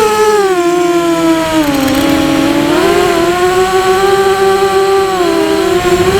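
Quadcopter's electric motors and propellers whining right beside the microphone, a buzzing tone that drops in pitch about two seconds in, holds, and climbs again near the end as the throttle changes.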